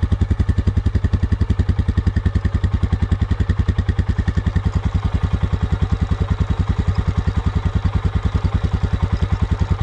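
Royal Enfield Himalayan's 411 cc single-cylinder engine idling just after starting, an even pulsing beat of about nine firing pulses a second.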